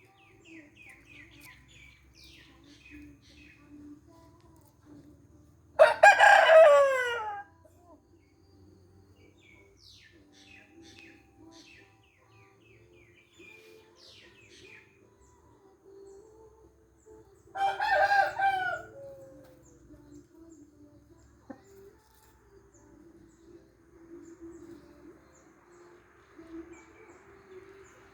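A rooster crowing twice, about twelve seconds apart, each crow lasting about a second and a half, with faint short chirps between the crows.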